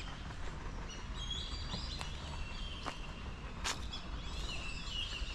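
Birds calling in short chirping runs, three times, over a steady low rumble, with a few sharp clicks between them.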